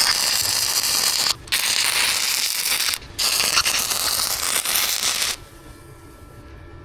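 110V flux-core welder arc welding steel plate: a loud, steady crackle that breaks off briefly twice, about one and a half and three seconds in, and stops about five seconds in.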